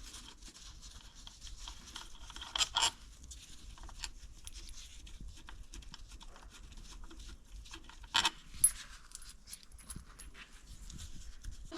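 Scattered light clicks and clinks, with a few louder knocks about three seconds in and again about eight seconds in.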